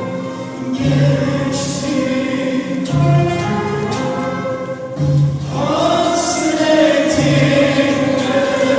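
A Turkish classical music ensemble plays a şarkı in makam Kürdilihicazkâr, with a low beat about every two seconds. A voice comes in singing about halfway through.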